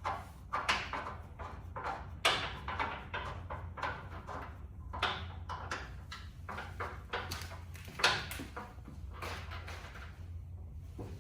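Irregular metal knocks and clatters of hand tools and suspension parts being handled while strut bolts are lined up and fitted, over a steady low hum.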